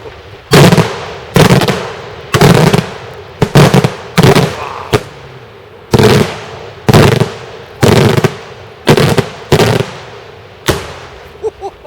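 Daytime fireworks shells bursting in a rapid series of heavy bangs, about a dozen at roughly one a second, each followed by a rolling echo. After the last big bang a few small pops crackle near the end.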